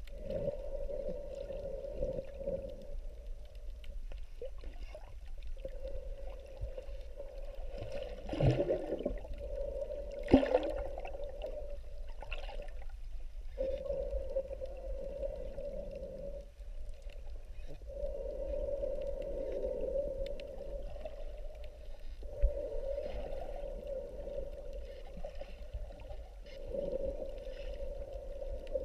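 Muffled underwater sound: a steady low rumble of water with a droning hum that comes and goes every few seconds, and a few sharp knocks partway through.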